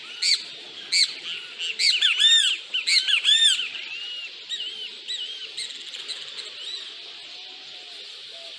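Birds calling: a rapid run of loud, sharp calls that each rise and fall in pitch during the first few seconds, then fainter scattered calls, over a steady high hiss.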